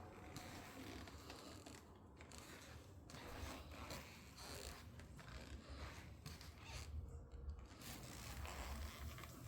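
Faint, irregular rustling and scraping over a low rumble.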